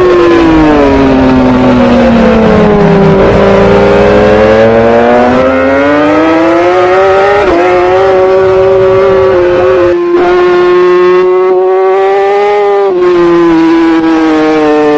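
Superbike engine heard from on board during a race. Its pitch falls as the bike slows into a corner, climbs as it accelerates out with a quick gear change, holds at speed, then drops again near the end as it slows for the next corner.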